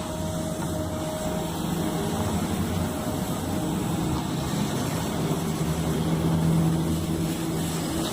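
A bus running with a steady low hum, growing louder about six to seven seconds in and then easing off.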